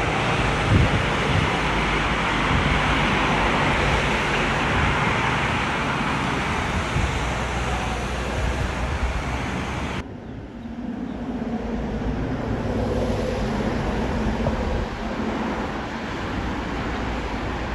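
Aircraft engine noise: a loud, steady rushing roar with wind rumbling on the microphone. It cuts off abruptly about ten seconds in, giving way to a quieter, steady low hum.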